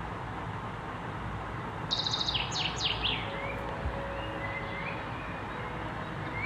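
Bird calls: a quick, high chattering trill with falling sweeps about two seconds in, followed by a few soft chirps, over a steady hiss.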